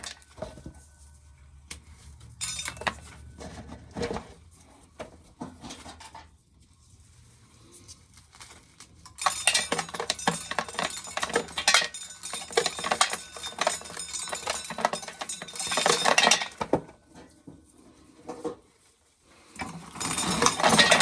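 Dry field corn being shelled from small cobs by hand, the kernels coming off in clattering, rattling bursts. There are short bursts in the first few seconds, a long busy stretch in the middle, and another burst near the end.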